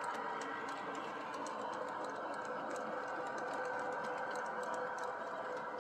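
Model GG1 electric locomotive running slowly along the track pushing a caboose: a steady small-motor hum with light regular clicking of wheels over rail joints.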